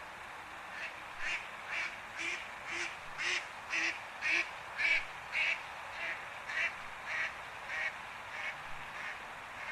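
An animal calling in a rapid series of about sixteen short calls, roughly two a second, swelling to the loudest in the middle and then fading away, over a steady hiss.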